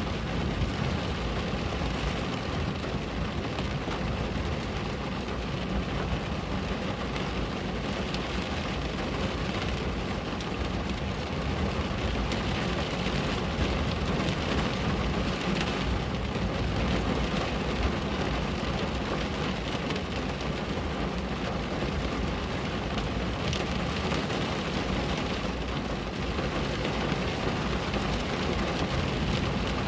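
Steady rain falling on a window glass: a continuous even hiss of drops with a low rumble underneath, unchanging throughout.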